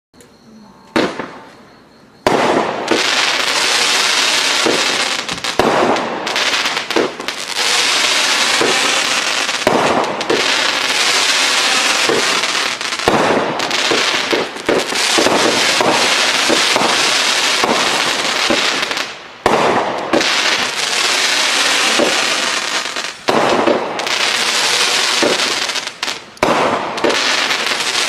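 500-gram consumer fireworks cake firing: a sharp report about a second in, then from about two seconds on a dense, unbroken barrage of launches and bursts, with only brief lulls near the end.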